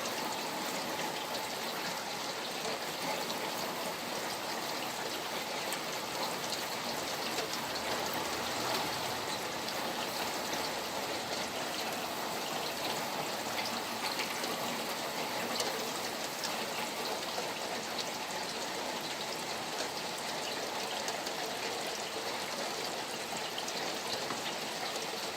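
Steady rain falling, with many small drop ticks over a constant rush of flowing water.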